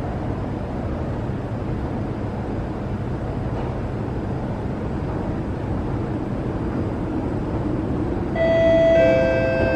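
MRT train pulling into the station platform with a steady low rumble. Near the end, two ringing tones sound one after the other, the second lower, and hold on.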